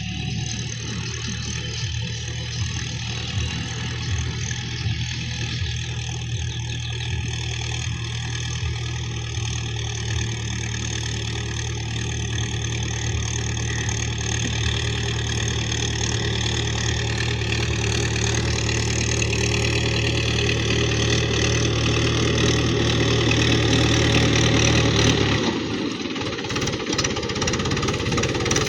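Diesel tractor engine running steadily with a low knocking note, slowly getting louder; about 25 seconds in the low steady note drops away and a rougher, noisier sound takes over.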